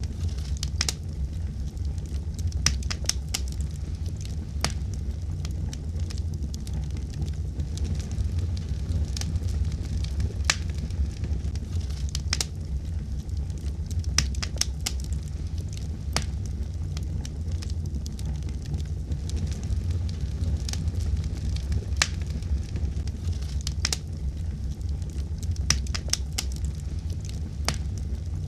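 Wood fire burning steadily, with a low rumble of flames and frequent sharp, irregular crackles and pops.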